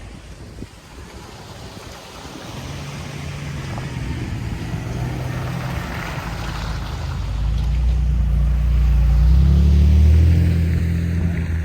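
A heavy motor vehicle's engine approaching and passing, with a low steady drone that grows louder over several seconds and is loudest about ten seconds in before it eases off, over a hiss of tyre and wind noise.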